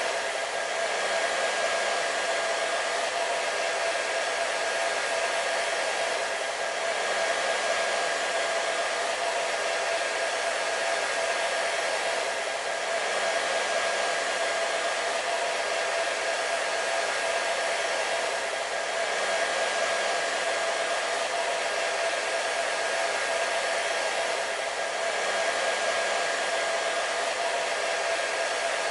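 Hair dryer running steadily: an even rush of blown air over a steady motor whine, swelling gently about every six seconds.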